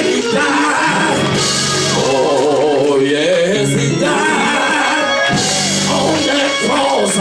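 Music: a preacher's sung, drawn-out delivery in long wavering notes over live band backing with drums.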